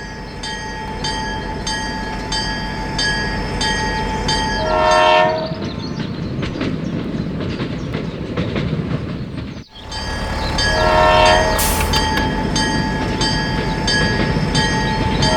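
A horn blows three times, about five seconds in, about eleven seconds in and again at the very end, over steady mechanical rumbling with a regular ticking and a steady high whine. The sound breaks off abruptly for a moment just before ten seconds in and then resumes.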